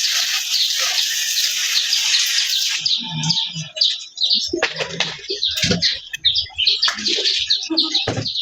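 Water spraying, cutting off suddenly about three seconds in, with many small birds chirping throughout; a few short knocks follow.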